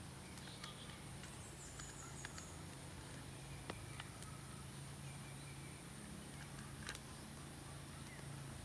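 Outdoor forest ambience with animal and bird sounds: a steady high-pitched drone, a few short chirps, and scattered light clicks and taps, the sharpest about four and seven seconds in.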